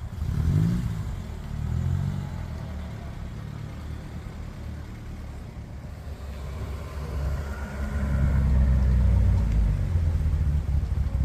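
A car engine running close by, revved briefly about half a second in and again near two seconds, then running louder towards the end.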